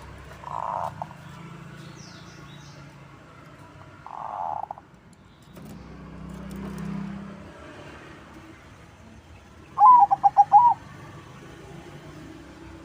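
Perkutut crossing (zebra dove) cooing: two short soft coos in the first few seconds, then, about ten seconds in, a loud song of several quick stepped coo notes.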